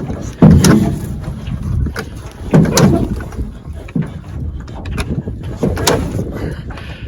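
Recoil starter rope of a 1968 Evinrude 9.5 hp two-stroke outboard yanked about four times, each pull turning the engine over briefly without it catching: the pulls are too weak to start it.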